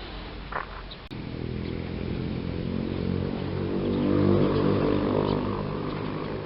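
A passing motor vehicle's engine: a low pitched drone that swells to its loudest a little past the middle and then fades. Just before it, a short bird chirp and a sharp click.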